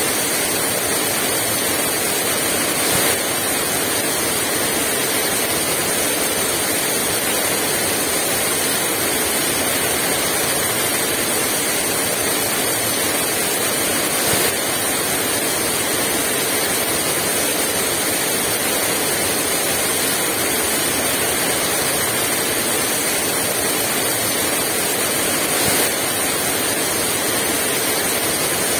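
Heavy rain pouring down steadily, an even dense hiss with no let-up.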